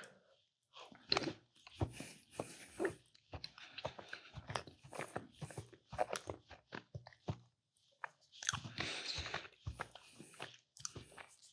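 A person chewing a white mini cupcake: irregular soft smacks and clicks of the mouth, denser for a couple of seconds about three-quarters of the way through.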